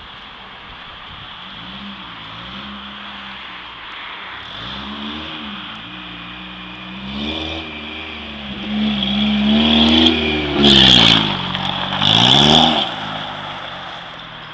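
Opel Vectra engine and exhaust revving up and dropping back about five times, each rev louder than the last, with the loudest about eleven and twelve and a half seconds in.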